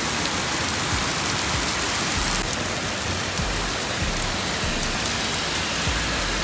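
Heavy rain pouring onto a waterlogged paved road: a steady, even hiss of the downpour.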